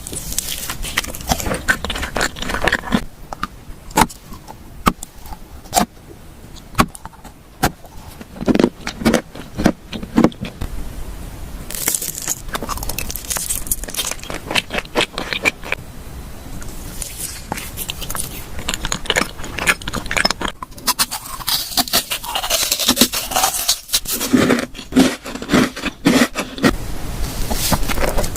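Close-miked ASMR eating sounds: chewing and biting with many sharp crackles, clicks and wet mouth sounds.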